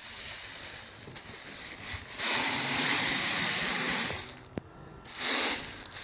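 Decorative stones poured out in a loud rushing pour of about two seconds, then a shorter pour about a second later, with quieter rattling of stones before them.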